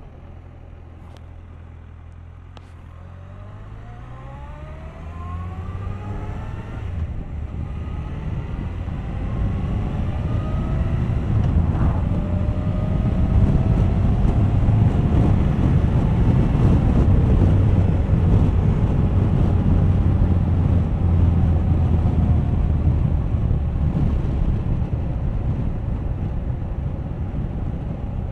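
Suzuki GSX1250FA inline-four motorcycle engine accelerating hard, rising in pitch through several gear changes. It then settles into a loud, steady rush at speed.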